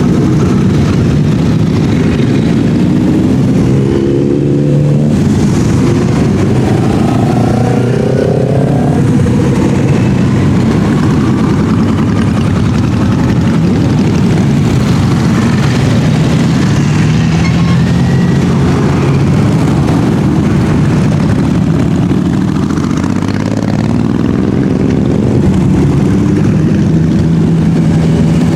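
A stream of motorcycles riding past in a dense procession: a continuous mass of engine noise, with single bikes audibly revving up and down, most clearly from about four to nine seconds in.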